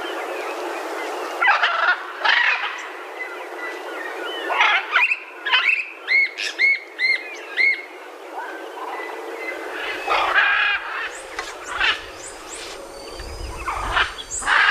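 Birds calling and chirping, several different calls overlapping, with a quick series of about five rising-and-falling notes midway, over a steady background hiss.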